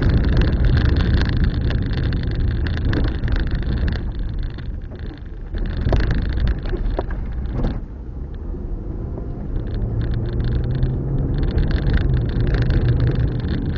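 Car driving along a road: a steady rumble of engine and tyre noise, easing briefly about five seconds and again about eight seconds in.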